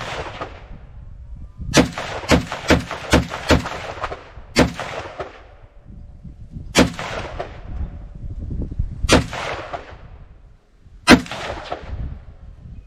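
Semi-automatic AK rifle firing single shots, each crack followed by an echoing tail. A quick string of five shots about two a second starts about two seconds in, then four more shots follow a couple of seconds apart, the last the loudest.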